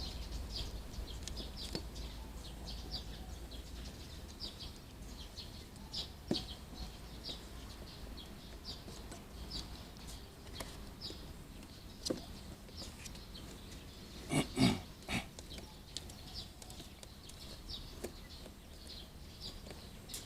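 Birds chirping over and over in short high calls, with a few faint knocks and a louder short burst about fourteen seconds in.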